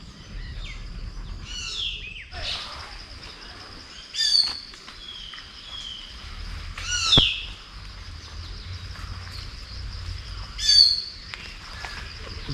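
A forest bird giving four short, loud calls, each sweeping down in pitch and spaced about three seconds apart, over a steady high-pitched drone.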